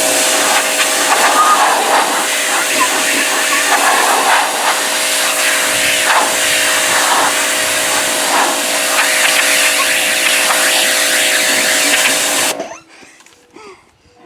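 Pressure washer blasting water onto wooden bee hive boxes, a loud steady hiss of spray over the pump's steady whine; it cuts off suddenly near the end.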